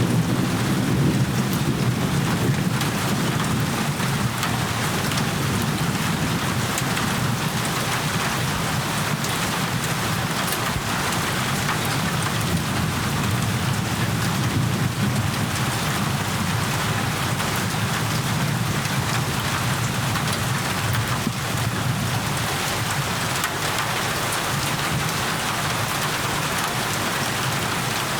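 Steady heavy rainfall, a dense even hiss of drops hitting surfaces, with a low rumble underneath that is a little stronger in the first few seconds.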